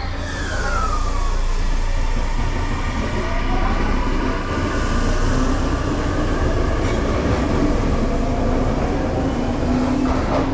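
Tokyu Ikegami Line electric commuter train pulling out of the station. Its motor whine slides down in pitch at the start and climbs again a few seconds in, over a steady low rumble of wheels on rail.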